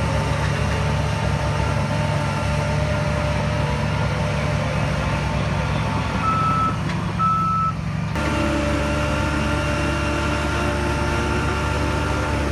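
Heavy diesel earth-moving machine running steadily while its reverse alarm beeps. The engine sound shifts abruptly about eight seconds in.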